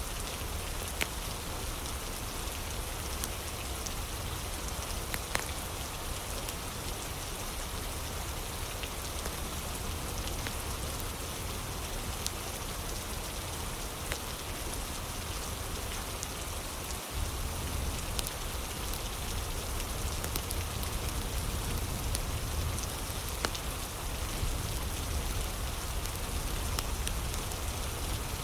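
Steady rain ambience with scattered sharp crackles from a fire. A brief dropout a little past halfway is followed by a slightly louder stretch, as at a loop seam.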